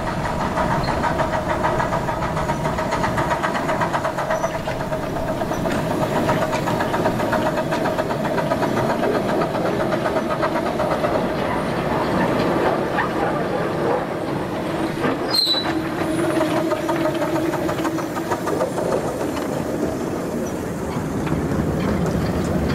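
A one-foot gauge railway locomotive and its passenger coach running steadily on the rails, coming closer and passing by, with a single sharp click about fifteen seconds in.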